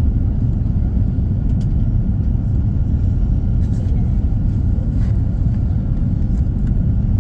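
Cabin noise inside an Airbus A340-300 airliner: a steady, deep rumble of engines and airflow, with a faint steady high tone above it.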